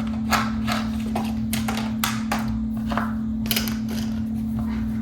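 Irregular sharp clicks and taps of hard box-fan parts being handled and fitted together, about nine or ten in all, over a steady low hum.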